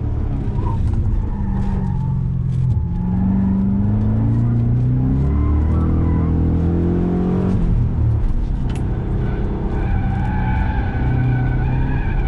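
Holden VE Commodore SS's 6.0-litre V8 heard from inside the cabin on a hot lap: the engine note climbs steadily under acceleration for several seconds, falls away sharply about eight seconds in, then runs on at lower revs.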